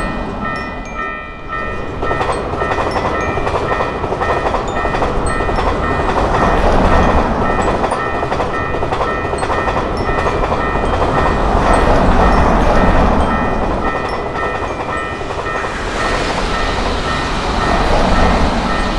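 Train passing: a continuous rumble of wheels on rails that swells and eases, with high steady tones sounding over it.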